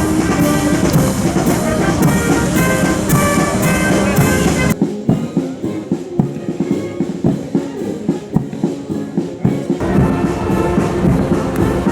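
Brass band with drums playing. For about five seconds in the middle the brass thins out and mostly drum strokes are heard, then the full band returns.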